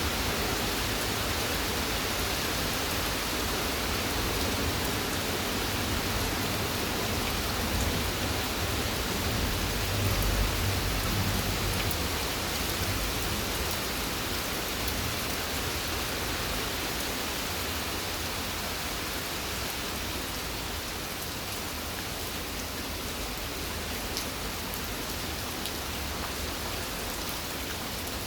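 Steady rain falling, an even continuous hiss, with a short low rumble about ten seconds in.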